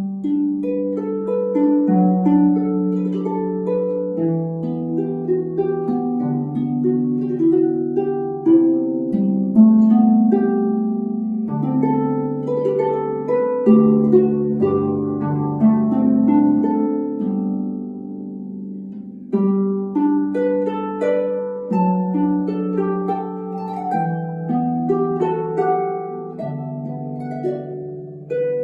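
Solo harp playing: plucked melody notes and chords ringing over low bass notes. The playing softens briefly past halfway, then picks up again with a fresh phrase.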